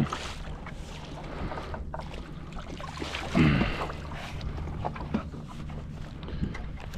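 Wind on the microphone and water lapping around a kayak. About halfway through comes a short vocal sound that falls in pitch.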